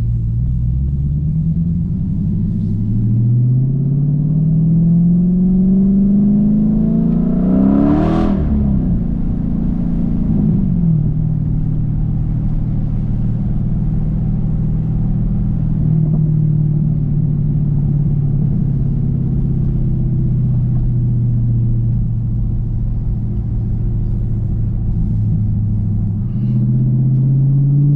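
Dodge Challenger's engine and exhaust under way: the note rises steadily as the car accelerates, with a short sharp burst about eight seconds in. It then settles to a steady cruising drone and starts to climb again near the end.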